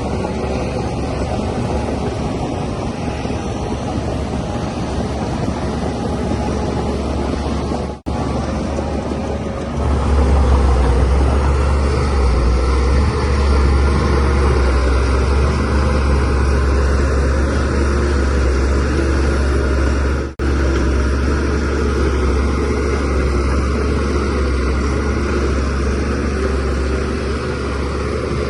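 DH17C3PRO bulldozer's diesel engine running steadily with a deep hum, louder and heavier from about ten seconds in. The sound cuts out very briefly twice.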